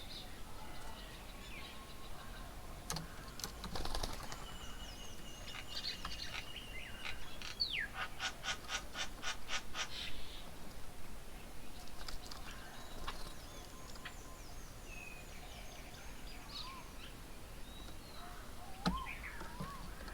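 Several birds calling and chirping with a mix of different calls: whistled and held notes, and, about eight seconds in, a fast even series of harsh notes lasting about two seconds.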